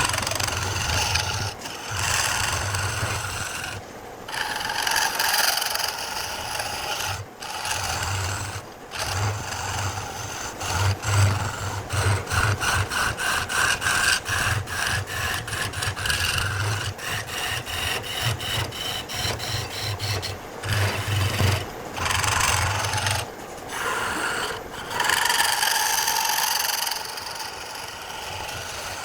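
Wood being worked with tools: rough rasping and scraping against wood, broken by short pauses, with a machine hum starting and stopping. A run of rapid, even strokes comes about halfway through.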